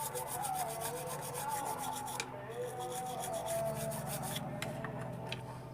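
Rapid scrubbing strokes on a circuit board, cleaning paste off the solder joints with petrol or thinner. The scrubbing pauses briefly a little over two seconds in, then carries on more lightly.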